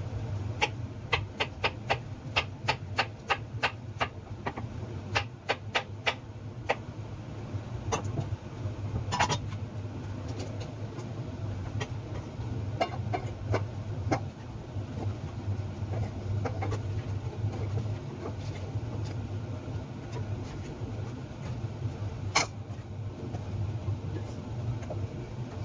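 Kitchen utensil sounds: a quick run of sharp knocks, about three a second, for the first six seconds or so, then scattered knocks and a short clatter about nine seconds in. A steady low hum runs underneath.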